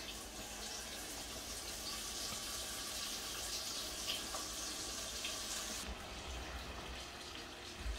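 Pieces of seasoned fish roe frying in hot oil: a steady, dense sizzle that starts suddenly and cuts off about six seconds in.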